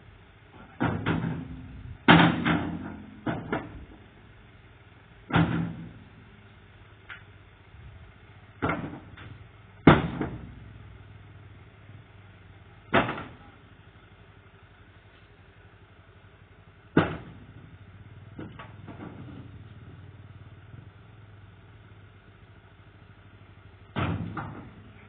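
An offroad vehicle on a rough dirt road, with about ten heavy irregular thumps and clunks a few seconds apart over a faint steady engine hum.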